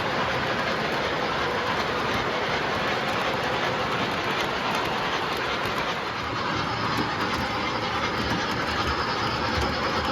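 MTH model trains rolling around a layout: a steady rattle of wheels on track with a scatter of small clicks over the rail joints.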